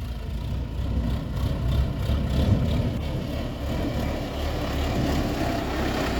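Tractor engine running steadily with a low hum.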